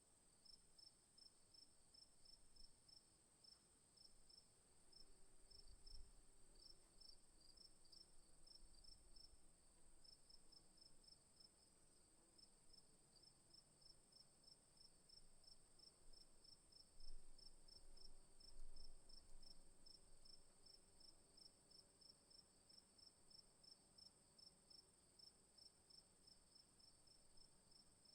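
Faint insect chorus: a steady high-pitched buzz with a short chirp repeating a few times a second over it.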